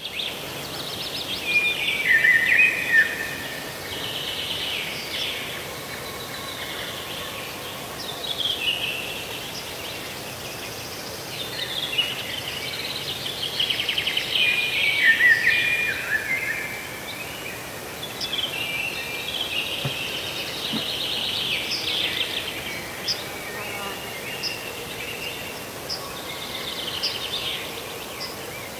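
Birds singing over a steady background hiss. The phrases repeat throughout, with whistles gliding down in pitch and rapid trills.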